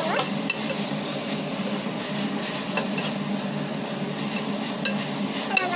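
Sliced onions and vegetables sizzling in a metal pot while a perforated steel spoon stirs them, with a steady frying hiss and a few light clicks of the spoon against the pan.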